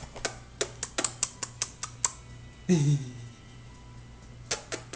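A baby making quick, sharp clicking noises, several a second, while eating. About three seconds in she lets out a short falling squeal, and the clicking starts again near the end.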